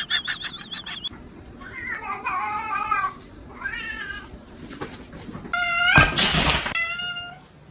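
Cat meowing: several drawn-out calls, some wavering in pitch.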